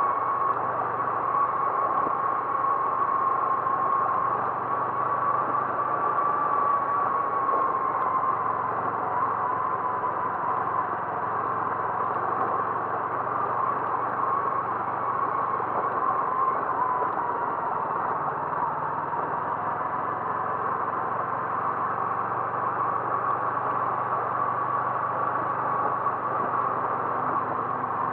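Car driving at a steady speed: a steady engine and road noise with a faint whine that drifts slightly lower in pitch partway through.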